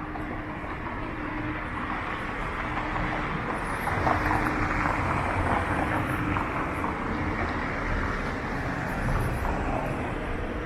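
City street traffic: a vehicle passing, its sound swelling to its loudest about four to six seconds in and then fading, over a steady background hum.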